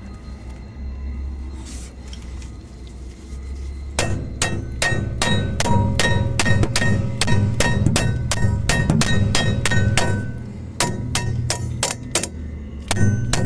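Hammer striking metal in quick repeated blows, about three a second, each blow ringing. It starts about four seconds in, with short pauses near the end.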